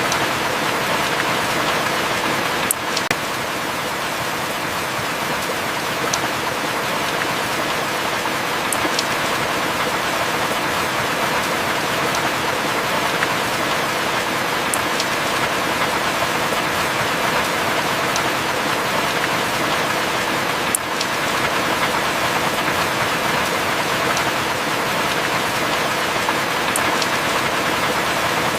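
Heavy rain falling steadily, a dense even hiss, with a few sharp ticks scattered through it.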